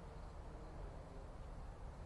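Faint steady outdoor background: a low rumble and hiss with no distinct event.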